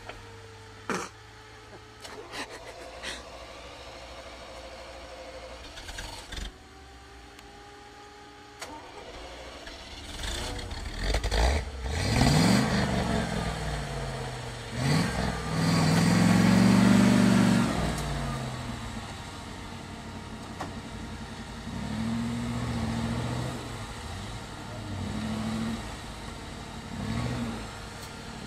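Toyota Land Cruiser engine idling low, then revved in repeated rising and falling pulls from about ten seconds in as the truck works through deep snow. The loudest, longest rev comes about two-thirds of the way through, followed by three shorter blips.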